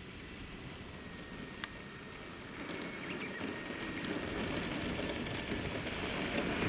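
Radio-controlled airplane's motor and propeller humming in the air, faint at first and growing steadily louder from about two and a half seconds in as the plane comes nearer.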